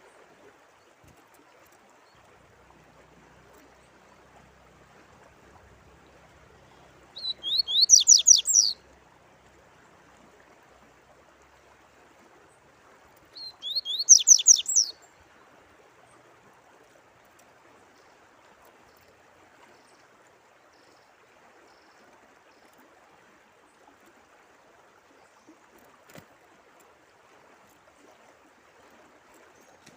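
A songbird sings two short, loud bursts of rapid high notes, about six seconds apart. Under them runs a faint, steady sound of running water.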